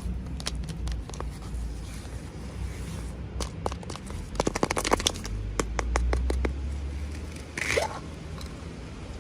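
Toy packaging being handled and opened by hand: scraping and crackling, with a quick run of small clicks and crinkles about halfway and a short rustle near the end.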